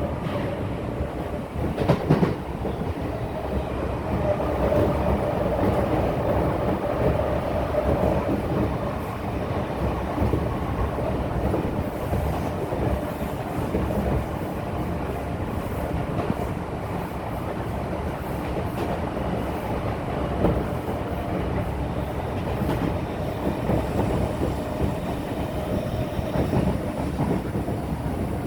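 An Odakyu 8000 series electric train with Mitsubishi IGBT-VVVF traction equipment running, heard from inside a motor car. The wheels clack over rail joints under a steady rumble, and a motor hum swells a few seconds in and again near the end.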